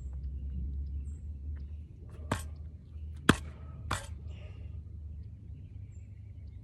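Three sharp knocks of a hand tool striking, a second apart and then half a second apart, the middle one loudest, over a low steady rumble.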